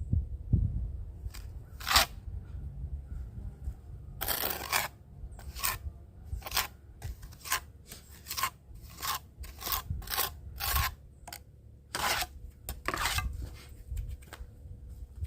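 A series of short, gritty scraping strokes, about fifteen at uneven intervals, over a low background rumble.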